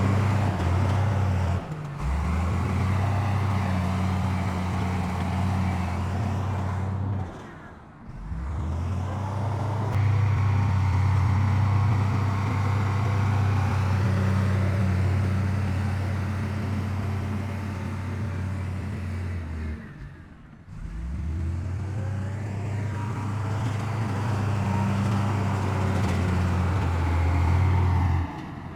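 Heavy construction machine's diesel engine running steadily with a deep, even hum. The sound drops away briefly about 8 and 20 seconds in and then picks up again.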